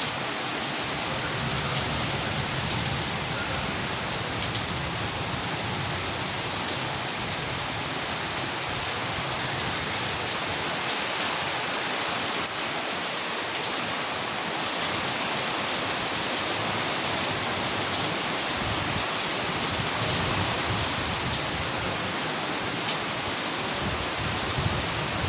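Steady rain falling, with the hiss of many drops hitting surfaces and faint scattered drips.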